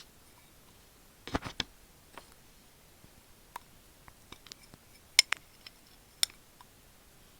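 Sharp, close-up clicks and taps picked up right at an earphone microphone, spaced irregularly: a quick cluster of three a little over a second in, lighter ticks after, and the two loudest snaps past the middle.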